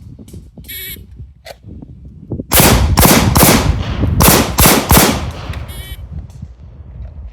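A shot timer's start beep, then a rapid string of about seven gunshots over some two and a half seconds, fired in a timed drill.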